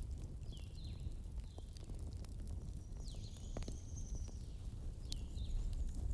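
Campfire burning: a steady low rumble with scattered crackles and pops, while a bird calls with several short chirps and one longer high note about three seconds in.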